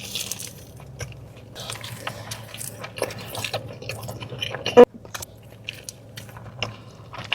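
Close-up eating: a person biting and chewing crunchy food, irregular crackling crunches, with one louder sharp sound about five seconds in.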